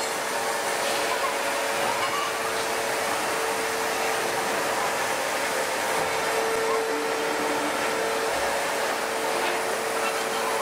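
Steady drone of heavy hydraulic forging press machinery, with a constant hum tone running through it and no blows or impacts.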